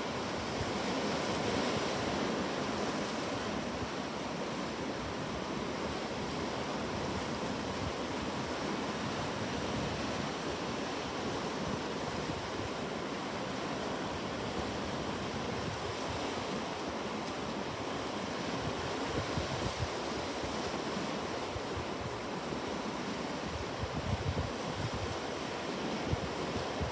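Ocean waves breaking and washing on the shore in a continuous, steady surf, swelling slightly about two seconds in.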